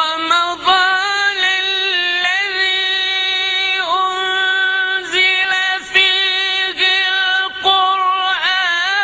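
A single voice reciting the Quran in the melodic mujawwad style, unaccompanied. It holds long, high notes with wavering ornaments, with short breaks between phrases.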